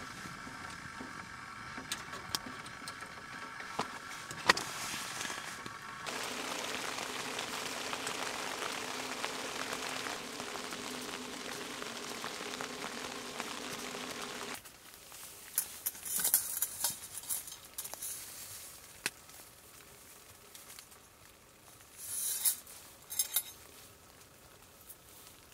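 Sizzling on a stove with light clinks of cookware. The sizzle grows louder about six seconds in and cuts off suddenly about fifteen seconds in, leaving scattered small clicks and two short bursts of higher hiss.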